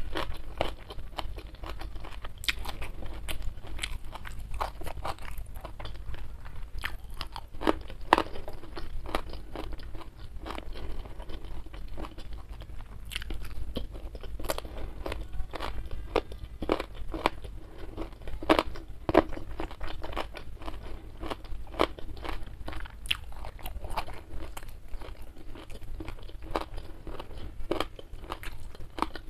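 Close-miked chewing of a mouthful of food, with wet mouth sounds and irregular sharp clicks several times a second.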